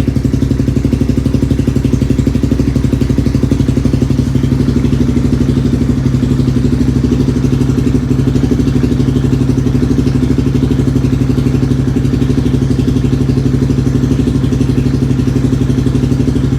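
Yamaha Wolverine 350 ATV's single-cylinder four-stroke engine idling steadily through a DG exhaust with the baffles removed, warming up after a cold start.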